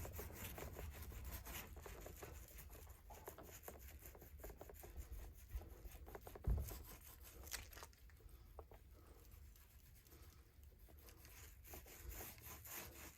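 Faint, irregular rubbing and crackling of resin being spread over wet fiberglass cloth on a drum shell, with a single soft thump about six and a half seconds in.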